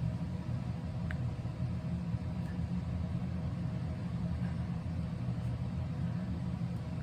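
Steady low rumble of background noise with a faint constant hum, such as a fan or other appliance running; a faint click about a second in.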